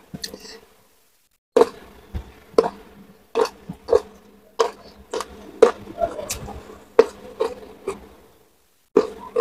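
Close-miked chewing of crunchy food: sharp crunches and wet mouth smacks, roughly one every half second to second, starting about a second and a half in.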